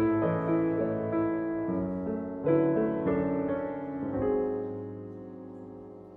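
Solo piano playing a gentle passage of chords, with a last chord struck about four seconds in and left to ring and fade away.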